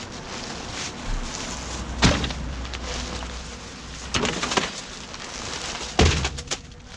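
Hands rummaging through a bag of rubbish: a steady crackle of plastic and cardboard being handled, with sharp knocks about two, four and six seconds in as items are moved about.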